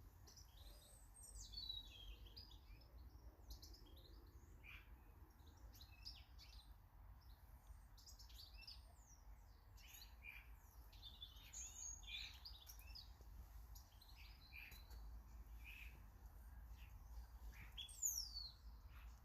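Small garden birds chirping and calling, with many short overlapping notes and a louder falling whistle near the end.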